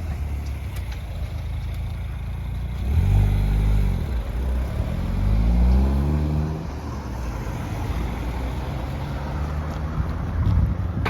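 Road vehicles running, with one engine pulling away about four seconds in, its note rising as it accelerates.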